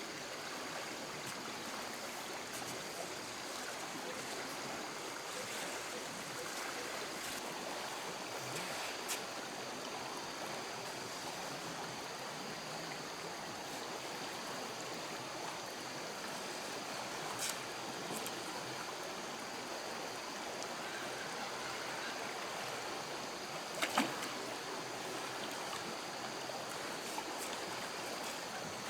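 Steady rush of flowing stream water, with a few sharp clicks or knocks over it, the clearest one late on.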